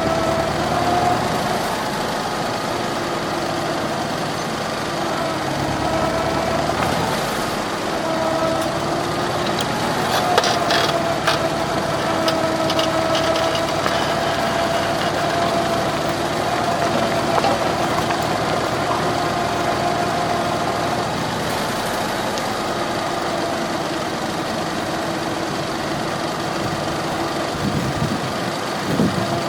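McCormick Farmall H tractor's four-cylinder engine running steadily, its pitch wavering slightly, with a few light clicks and rattles about a third of the way through.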